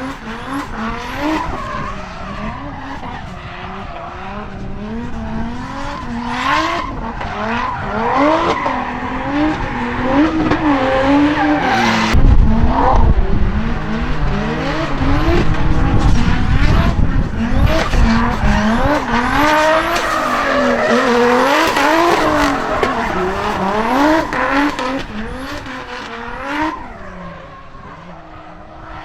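Drift cars sliding, their engines revving up and down in quick swings while the tyres squeal. The sound grows louder past the middle and fades away near the end.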